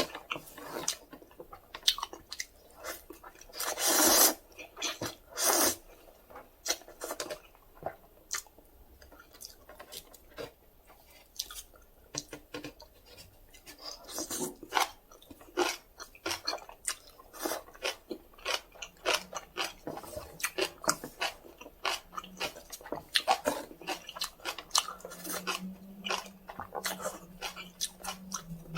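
Close-miked mouth sounds of a person eating instant cup noodles: wet chewing and smacking in a quick, uneven run of clicks, with a few longer, louder bursts in the first six seconds.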